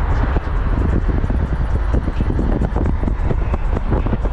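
Straight-piped Lexus SC430 V8 exhaust running while the car is driven, an X-pipe with no mufflers. The sound is loud and steady, low in pitch.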